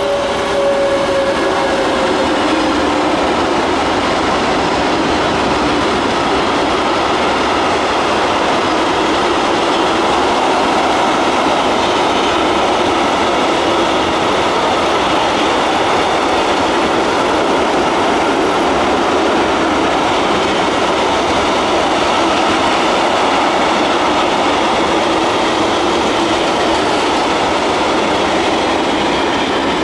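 A freight train of empty coal hopper wagons rolling past at speed: a loud, steady wheel-on-rail rumble and rattle. In the first few seconds the Class 189 electric locomotive's two-note whine drops in pitch as it goes by.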